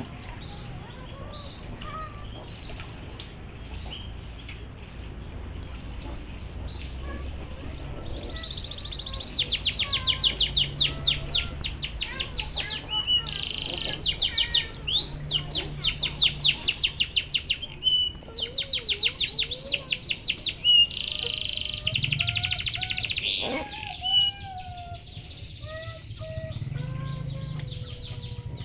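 Canary singing: a loud song of fast rattling trills, several phrases in a row, starting about eight seconds in and falling away after about fifteen seconds.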